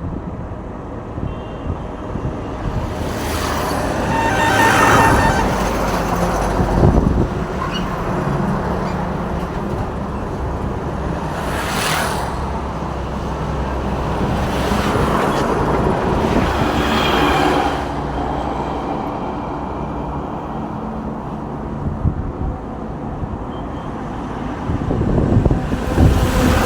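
Road traffic: vehicles, trucks among them, driving past one after another, each swelling and fading over a steady low engine hum.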